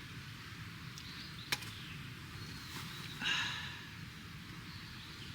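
A short, harsh animal call a little after three seconds in, over faint high bird chirps, with one sharp click about a second and a half in.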